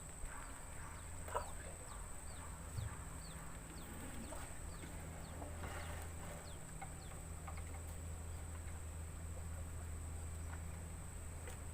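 A bird calling over and over in short, high, falling notes, about two a second, over a steady high-pitched whine and a low hum, with a few faint knocks in the first three seconds.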